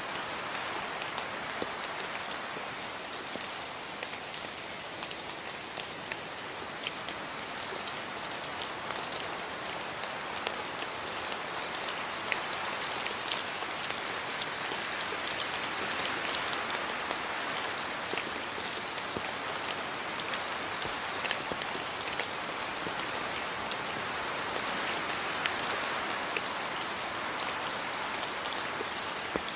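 Steady rain falling on surfaces around a house yard, an even hiss of rainfall with many individual drops ticking sharply and now and then a louder splat.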